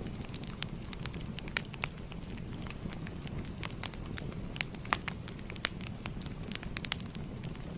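Fire crackling: irregular sharp pops and snaps, several a second, over a steady low rush of the flames.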